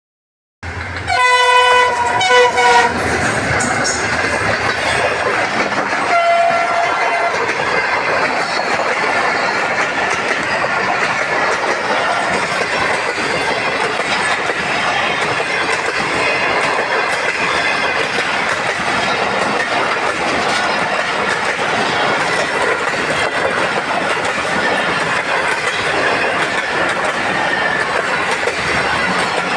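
A train sounds its horn, one blast of about a second and a half starting about a second in, with a shorter, fainter note around six seconds. It then runs past steadily, its wheels and cars clattering on the rails.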